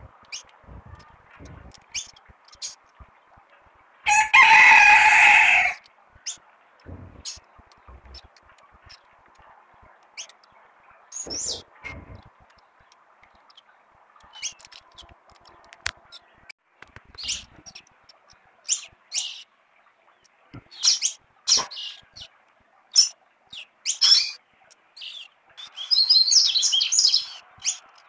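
Birds calling in the trees: one loud call lasting about two seconds, about four seconds in, then short high chirps scattered throughout and a quick run of high notes near the end.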